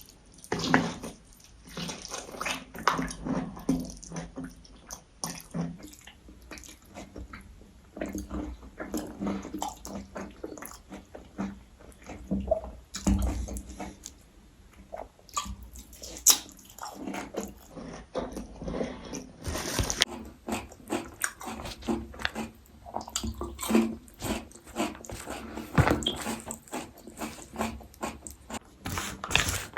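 Close-miked mukbang eating sounds: wet chewing, lip smacks and mouth clicks from someone eating braised pork and white rice, with a few sharper clicks along the way.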